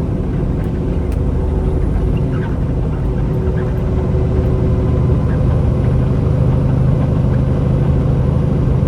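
A semi-truck's engine and road noise heard from inside the cab while driving, a steady low drone that grows a little louder from about five seconds in.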